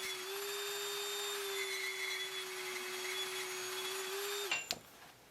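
Small electric power tool motor running at a steady pitch with a hiss, cutting off suddenly about four and a half seconds in.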